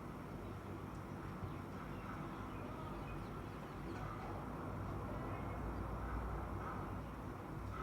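Steady low rumble, with a few faint sparrow chirps over it.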